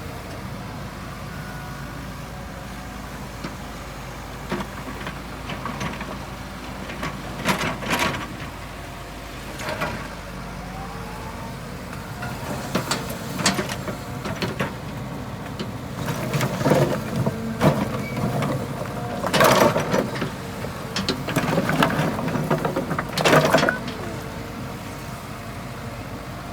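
Excavator's diesel engine running steadily while it works rock, with irregular loud scrapes and clatters of steel on stone that come more often in the second half.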